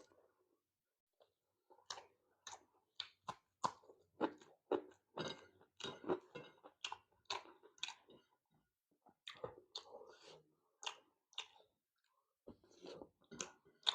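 Close-up chewing of a mouthful of food, in quick irregular runs of about two to three chews a second, with two short pauses.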